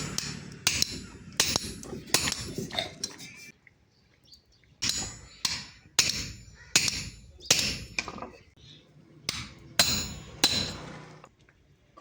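Blacksmith's hammer striking steel on an anvil with ringing clangs, a run of blows, a pause of about a second around four seconds in, then a second run.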